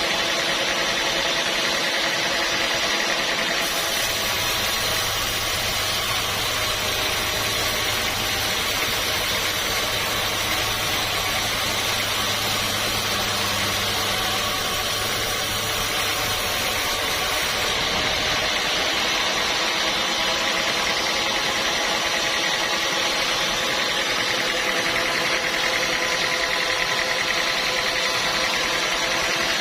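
Sawmill machinery running steadily: a constant mechanical hum with several steady tones. From about four seconds in until about eighteen, a deeper hum and a higher hiss join it.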